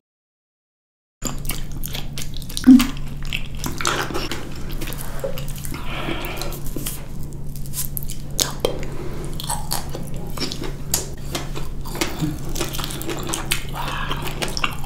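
Close-miked wet chewing and mouth sounds of ripe black figs being bitten and eaten, with many small sticky clicks and lip smacks. It starts after about a second of silence, and there is a single low thump about three seconds in.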